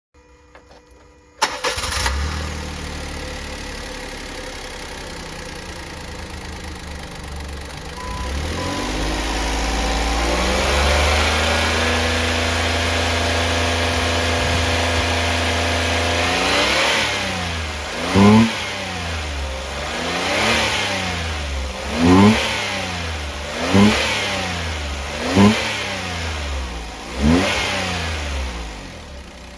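Daihatsu KF-VE4 three-cylinder engine from a 2018 Hijet Cargo being run for testing. It starts about a second and a half in and idles. The idle steps up around eight seconds in and holds. In the second half it is revved in several short throttle blips, each rising and falling in pitch.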